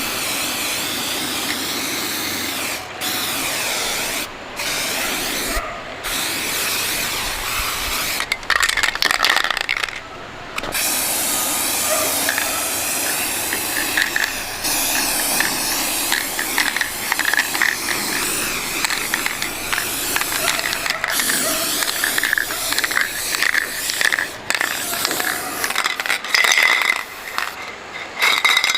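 Electric arc welding on an iron frame: a steady crackling hiss, broken by short sudden stops as the arc goes out and is struck again.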